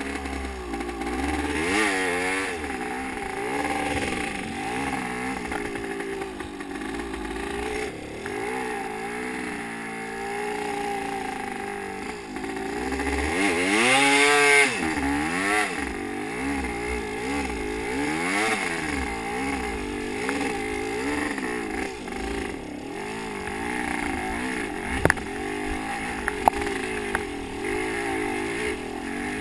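Motocross dirt bike engine revving up and down over and over, climbing to its loudest rev about halfway through. A couple of sharp clicks come near the end.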